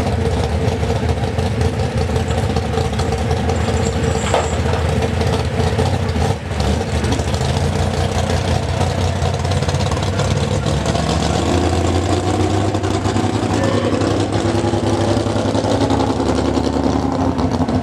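Antique farm tractor engine running steadily, with its note rising and wavering in the second half as it is revved.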